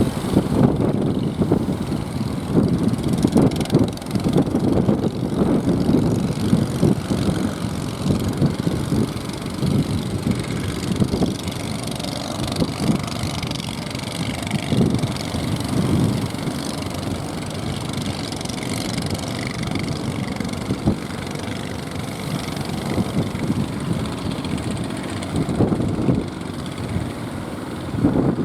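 Strong wind buffeting the microphone: a low rumble that surges irregularly.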